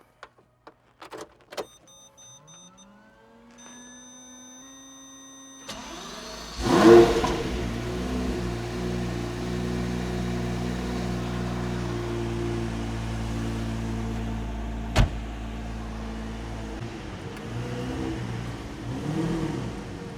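Lamborghini V12 cold-start sequence: electronic beeps and rising whirs as the ignition comes on, then the engine fires about six seconds in with a loud rev flare. It settles into a steady idle, with a sharp click partway through and a couple of light blips near the end.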